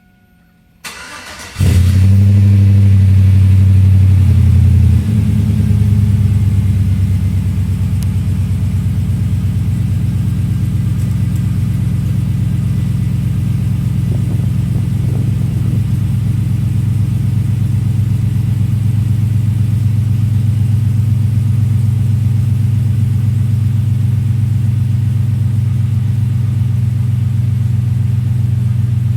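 Cold start of an LS-swapped Chevrolet S10 Blazer's L33 5.3-litre V8 through a Magnaflow 12588 exhaust. The starter cranks briefly about a second in, the engine catches and runs at a loud high idle, drops down at about five seconds, then settles into a steady idle.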